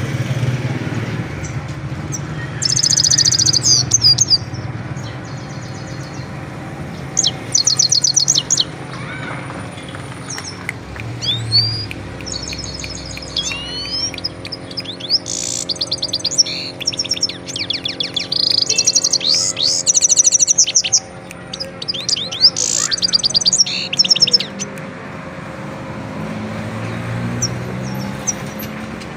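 Himalayan goldfinch singing: bursts of rapid, high twittering phrases of quick slurred notes and trills, repeated again and again with short pauses, over a low steady hum.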